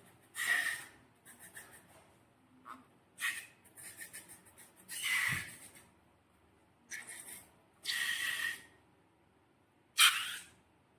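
Slime being squeezed and worked by hand: a string of short squishing, crackling sounds, about eight of them, the loudest near the end.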